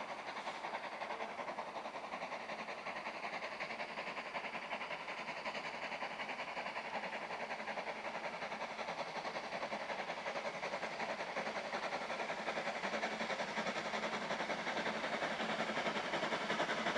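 A train running along the track, a steady rattling rumble that grows gradually louder toward the end.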